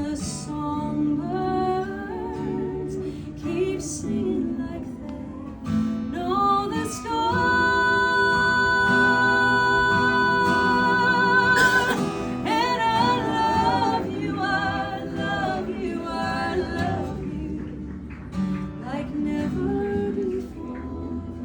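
A woman singing a folk song to acoustic guitar, her voice wavering with vibrato; about seven seconds in she holds one long high note for several seconds before the melody moves on.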